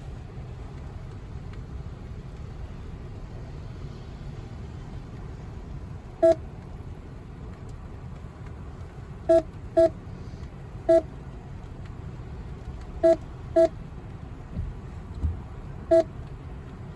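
Seven short electronic keypad beeps at uneven intervals, starting about six seconds in, as keys are pressed on a payment terminal. A car engine idles with a steady low rumble underneath.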